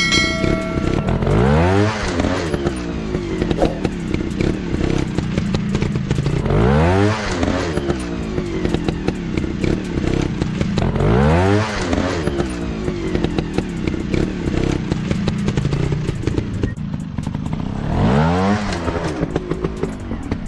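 Dirt bike engine running and revving up sharply about four times, with many short clicks and knocks throughout.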